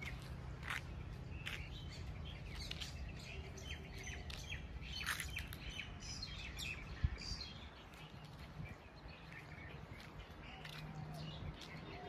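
Small birds chirping repeatedly in short calls, over a low steady hum, with one sharp knock about seven seconds in.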